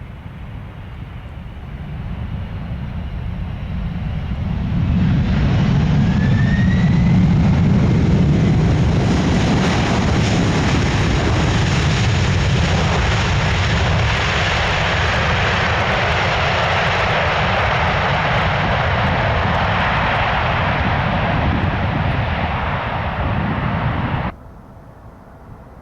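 Jet airliner's engines passing close by: the noise builds over the first five seconds, with a brief rising whine, holds loud and steady, and then cuts off suddenly near the end.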